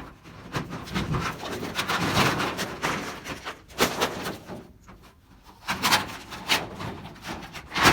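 Corrugated tin roofing being torn down and handled: a dense run of metallic clattering and knocking, then several separate sharp bangs.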